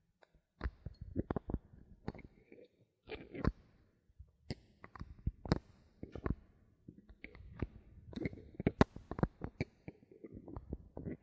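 Bottle caps handled close to the microphone for ASMR: irregular sharp clicks and taps, several a second, with a short lull about four seconds in.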